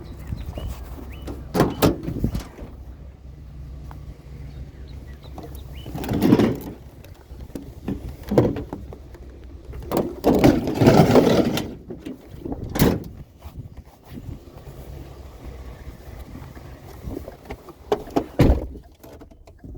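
Several separate thumps, bangs and rattles of discarded scrap being picked up and handled, with a door, over a steady low engine hum.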